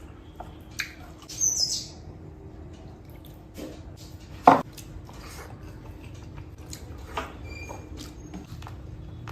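Close-up mouth sounds of eating chicken curry with rice: wet clicks and smacks of chewing, with a short high squeaky slurp about one and a half seconds in and one sharp loud smack about halfway.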